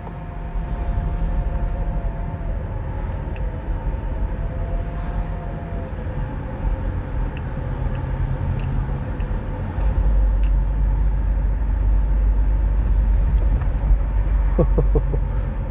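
Car driving along a forest track, heard from inside the cabin: a steady engine and tyre rumble that grows heavier about ten seconds in, with a few light knocks.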